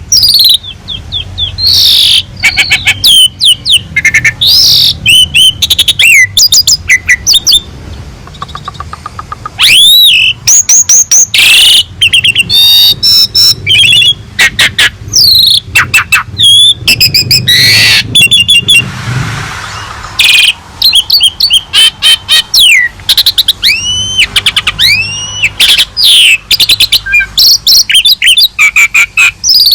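Asian pied starling (jalak suren) singing loudly and without pause: a rapid, varied jumble of sharp gliding whistles, chirps and fast clicking trills, with a harsh rasping call just past the middle.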